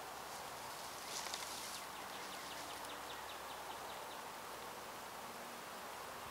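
Outdoor ambience with a bird calling: a short high chatter about a second in, then a series of evenly spaced short notes, about five a second, that stops around two-thirds of the way through.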